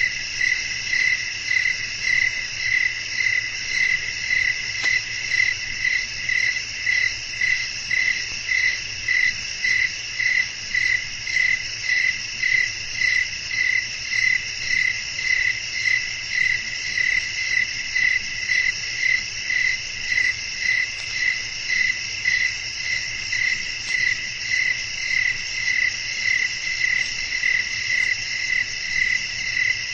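Crickets chirping in a dense night chorus, steady throughout, with the loudest voices pulsing evenly about one and a half times a second over a continuous higher trill.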